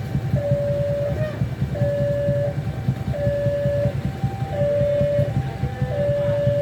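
Level crossing warning alarm sounding a repeating two-note chime, a longer low note and a short higher one about every second and a half, over the heavy rumble of a train passing the crossing.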